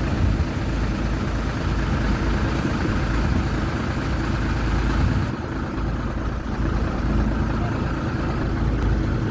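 Heavy diesel engine running steadily at low revs, a continuous low drone that eases slightly about five seconds in.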